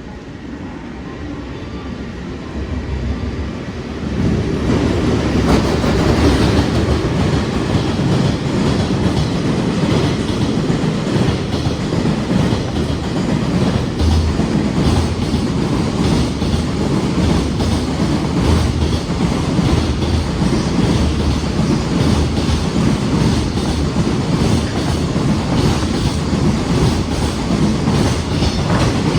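A JR Freight EF210 electric locomotive and its freight wagons passing through a station without stopping, the wheels clattering over the rail joints. The noise swells about four seconds in and then runs on as a steady rumble with repeated clacks.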